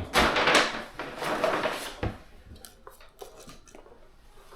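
Rustling of a shopping bag and packaging as purchases are handled, loud for about two seconds, then a few light clicks and taps.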